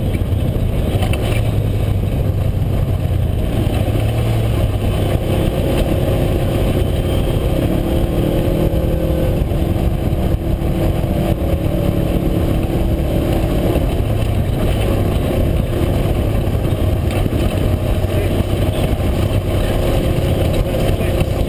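Side-by-side UTV engine running under load while driving a trail, a loud steady drone whose pitch shifts a little now and then, with road and wind rush.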